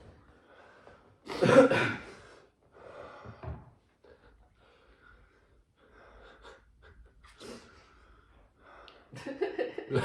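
A man gasping sharply about a second and a half in, then another heavy breath and quieter panting: breathing hard through a mouth burning from extremely hot chili sauce.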